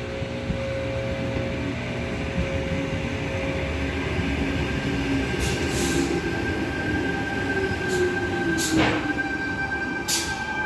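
Sydney Trains Tangara electric multiple unit (set T19) pulling into the platform. Steady motor and electrical whines, one sliding down in pitch as the train slows, with a few brief high-pitched noises in the second half.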